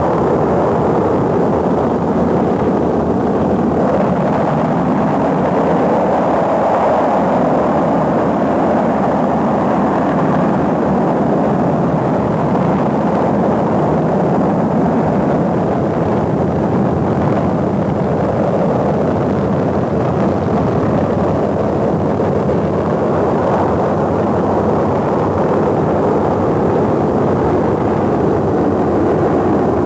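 Rocket engine exhaust noise during a launch: a loud, steady, unbroken rushing sound with no let-up.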